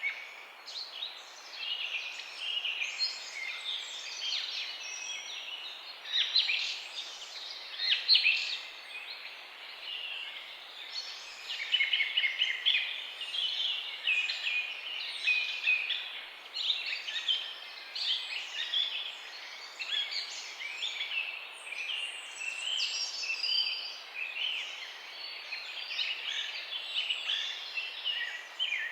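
Many birds chirping and singing at once in a morning chorus: a dense, overlapping chatter of short, high chirps and trills, over a faint steady background hiss.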